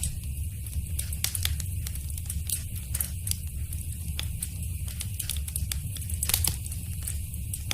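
Wood fire crackling in a fireplace: irregular sharp pops and snaps over a steady low rumble of the burning fire, with a cluster of louder pops a little past six seconds in.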